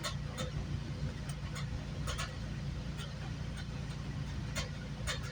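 Inside a moving GO Transit commuter train coach: a steady low rumble of the train running, with scattered short sharp clicks.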